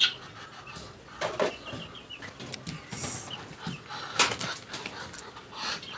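Chickens and guinea fowl clucking and calling in short, scattered calls.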